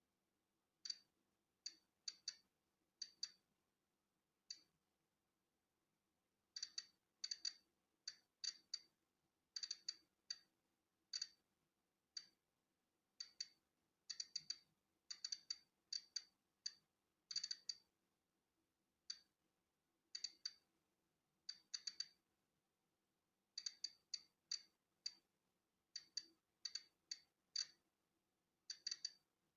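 Polon EKO-C digital Geiger counter clicking at random, irregular intervals as it registers natural background radiation: short high-pitched ticks, sometimes in quick clusters, sometimes a second or two apart.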